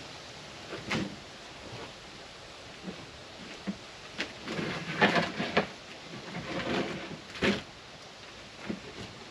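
Irregular knocks and rubbing sounds of objects being handled, busiest around the middle, with a sharper knock near the end.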